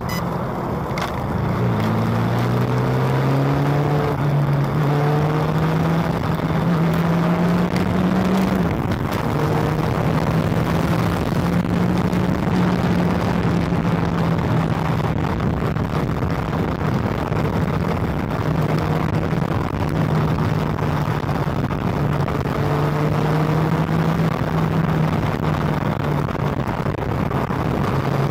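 Honda CB400 motorcycle engine running at expressway speed, over steady wind and road noise. Its pitch climbs as it accelerates in the first few seconds, drops at a gear change after about eight seconds, then holds a steady cruise.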